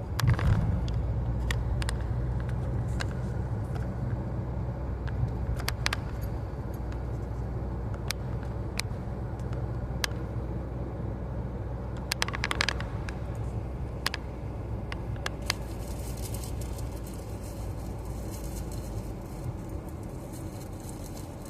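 Inside a moving car: a steady low rumble of road and engine noise, with scattered small clicks and knocks. A higher hiss joins about two thirds of the way through.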